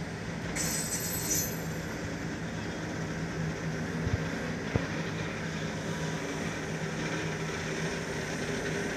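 Freight train running past, a steady rumble of wagons on the rails with a low hum. A brief high hiss comes about a second in, and two short knocks come a little after the middle.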